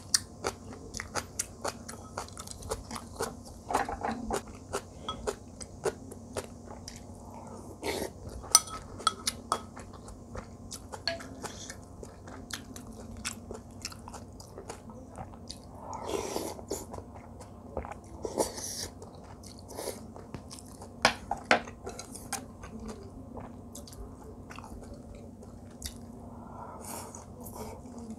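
A person chewing and crunching food close to the microphone, with many short sharp crunches and clicks and a few longer chewing bursts.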